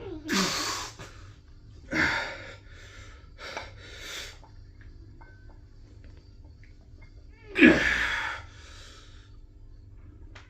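A person's heavy, forceful exhalations with short grunts, four of them at uneven spacing. The loudest comes about three quarters of the way through.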